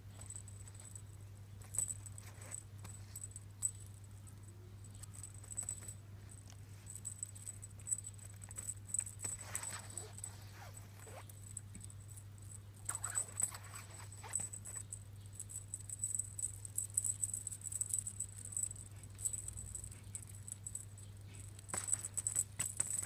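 Cats moving about, with light scattered pattering and clicking of paws, in busier spells now and then, over a steady low electrical hum.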